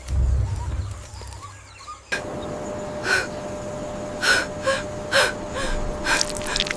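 A deep rumble fades over the first two seconds. Then a sudden change brings a steady faint hum and a series of about six short, sharp gasping breaths.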